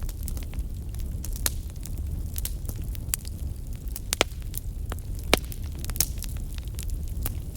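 Wood fire burning in a fireplace: a steady low rumble of the flames with irregular sharp crackles and pops, the loudest pops about four and five seconds in.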